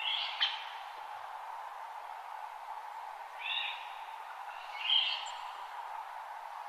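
Wild birds giving short, high chirps, about four in all, over the steady hiss of a creek running over rocks.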